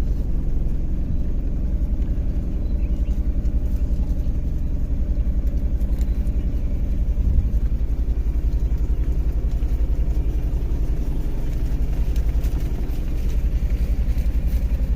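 A motor vehicle's engine running steadily: a low, even rumble with a fast regular pulse that holds throughout.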